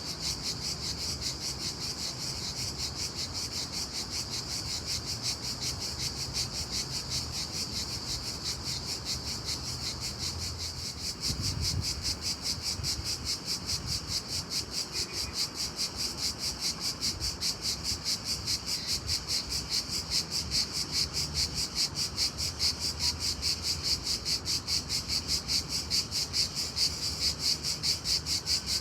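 Loud, continuous chorus of insects, taken for crickets, chirping in a rapid pulsing trill. A brief low rumble sounds about twelve seconds in.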